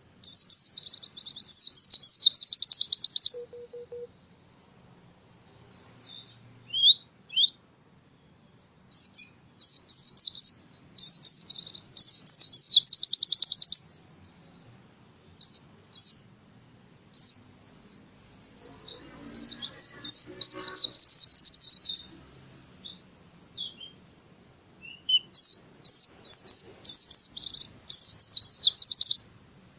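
White-eye (pleci) singing in long, rapid, high twittering trill phrases of a few seconds each, with brief pauses between phrases.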